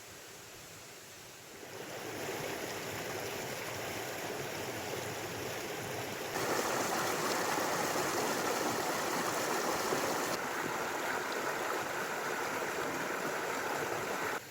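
Stream water flowing, a steady rushing noise that grows louder about two seconds in, steps up suddenly about six seconds in, and cuts off abruptly at the end.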